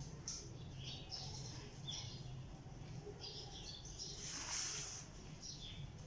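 Small birds chirping: many short, high chirps scattered throughout. About four seconds in, a brief hissing burst of noise is the loudest sound.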